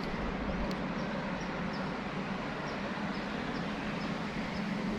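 Steady outdoor noise with wind rumbling on the microphone. A faint, high chirp repeats about twice a second over it.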